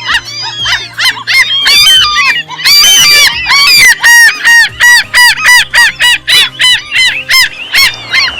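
Gulls calling: loud, repeated yelping calls, overlapping at first and then settling into a regular run of about three calls a second.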